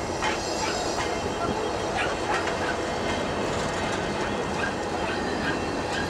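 Train rolling past steadily, its wheels clattering over the rail joints with scattered clicks.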